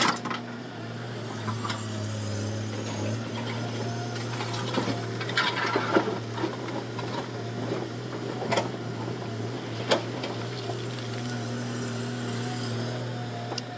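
Komatsu hydraulic excavator's diesel engine running at a steady pitch, with a few sharp knocks and clanks from the working machine.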